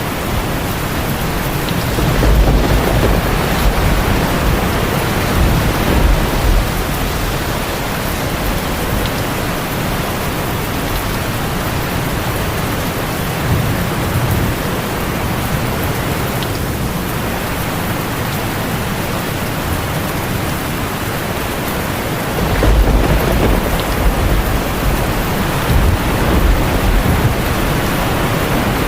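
Heavy rain drumming steadily on a tin roof, with low rolls of thunder rumbling twice, a few seconds in and again near the end.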